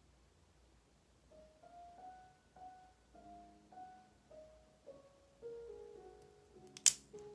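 Soft, slow piano music, single notes beginning about a second in, with one sharp click near the end.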